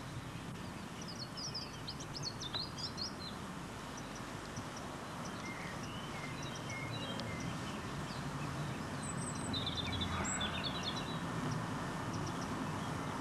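Small birds chirping and singing in two short spells, about a second in and again around nine to eleven seconds, over a steady outdoor background noise.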